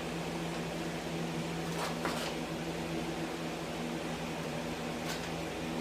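A steady electric motor hum, like a running fan, with a few faint clicks about two seconds in and again near the end.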